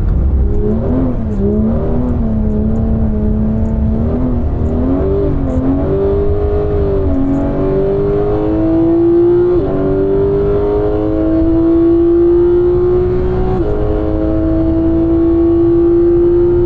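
Porsche 991 GT3's flat-six engine under track driving. The revs rise and fall with the throttle for the first several seconds, then climb steadily through the gears, broken twice by short gear changes.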